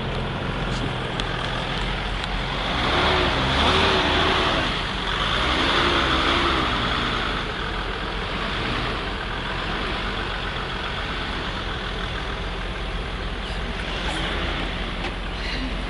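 Motor vehicle engine running steadily with a low rumble, the sound of a road vehicle under way, most likely the group's bus.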